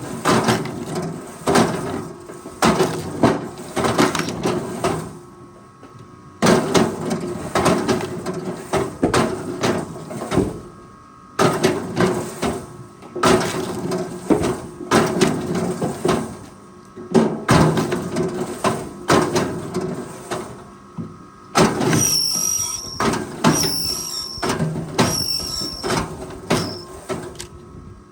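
Forestry machine at work: a steady engine hum under bursts of repeated knocks and metal clanks, with a short high squeal several times near the end.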